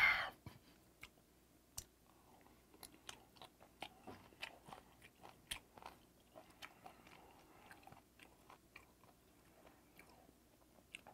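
Faint close-up chewing of steamed ray meat and its cartilage bones: irregular wet clicks and small crunches, one after another.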